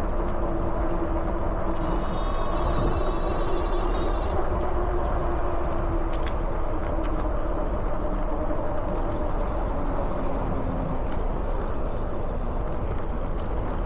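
Steady riding noise from the SMLRO V3 dual-motor e-bike under way: tyre and wind rush with a faint steady electric-motor hum.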